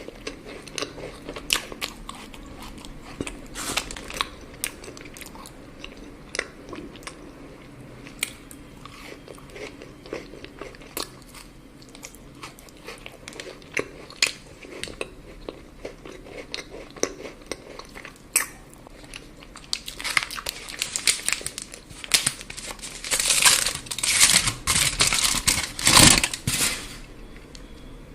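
Close-miked eating of chocolate: crisp bites and chewing with scattered sharp cracks, growing into a louder, denser run of crunching in the last third.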